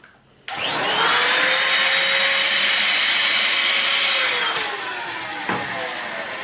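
A loud, steady motor whir that starts abruptly about half a second in, holds a steady pitch, then slides down in pitch after about four seconds and carries on more quietly.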